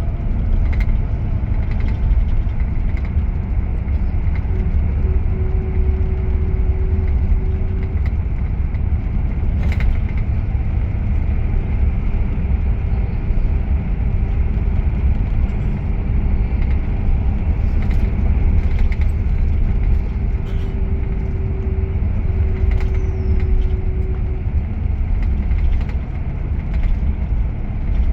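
Scania K410IB coach on the move, heard from inside the cabin: a steady low rumble of engine and road. A steady whine comes in twice, and there is a single click about ten seconds in.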